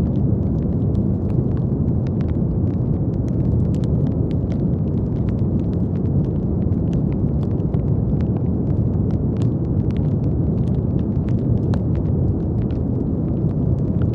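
Steady brown noise: a deep, even rumbling hiss with most of its weight low, flecked with faint scattered clicks.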